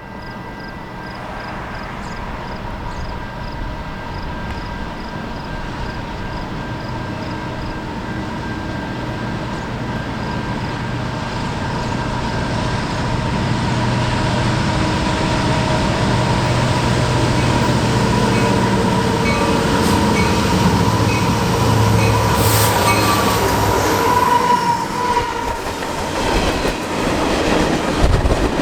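Diesel-hauled train approaching and growing steadily louder, its locomotive engine droning low. Near the end the wheels start clicking over the rail joints as it passes close.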